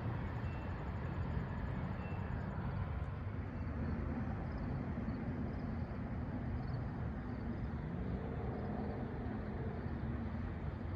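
Steady low outdoor rumble, heaviest in the bass.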